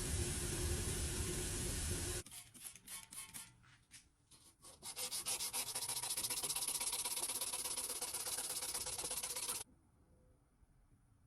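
A steady hiss that cuts off about two seconds in, then quick, fast-repeating scraping strokes of sanding on a restored toy truck's metal part, which stop abruptly near the end.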